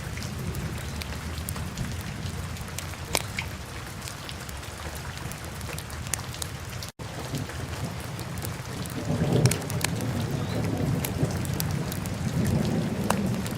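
Wood fire crackling in a fireplace: scattered sharp pops over a steady low rumble of the flames, which swells louder twice in the second half. The sound cuts out for an instant about halfway through.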